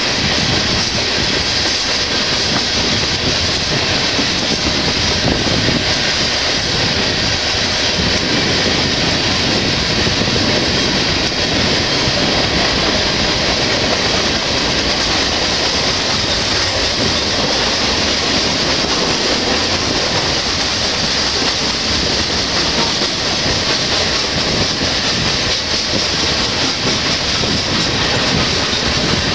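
Freight train of tank cars rolling steadily past a level crossing: a loud, even noise of steel wheels running on the rails, unchanging throughout.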